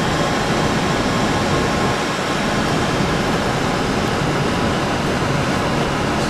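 Steady, even rush of cockpit noise in a Boeing 747 on final approach, mostly airflow over the flight deck, with a few faint steady tones beneath.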